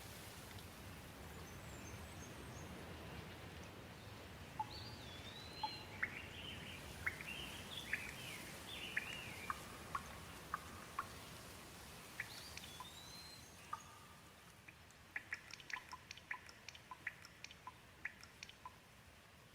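Gentle rain falling as a steady hiss that thins in the second half, with a bird calling over it: short rising-and-falling whistled calls, bursts of chirps, and a quick run of sharp ticking notes near the end.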